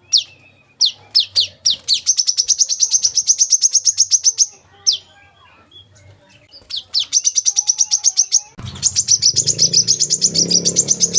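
Brown-throated sunbird (kolibri kelapa) singing: a few sharp, high, downward-sliding notes, then fast even trills of about ten high notes a second. A low rumbling background noise comes in under the last trill.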